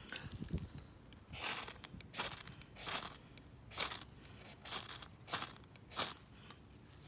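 Knife shaving curls from a wooden stick to make a feather stick: about seven or eight crunching scrapes, a little under a second apart, stopping near the end.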